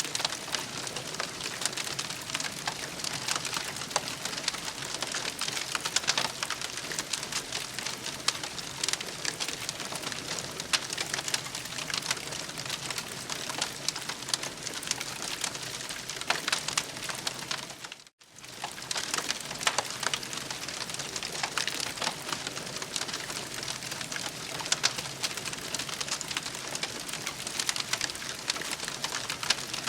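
Campfire crackling: a steady hiss thick with small pops and snaps, cutting out for a moment about two-thirds of the way through.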